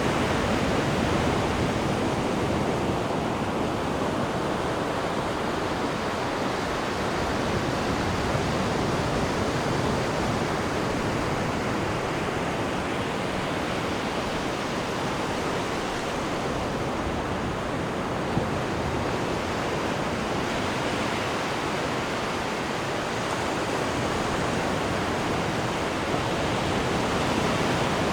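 Sea water churning in the wake behind a cruise ship's stern: a steady, even rush with slow, slight swells in level.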